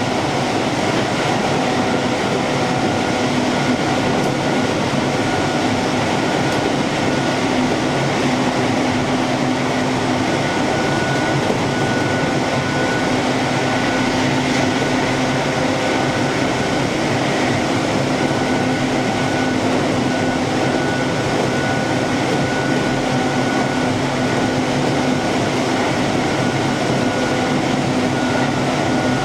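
Keihan electric train running at steady speed, heard from inside the car: a constant rumble of wheels on rails with a steady hum and whine from the drive.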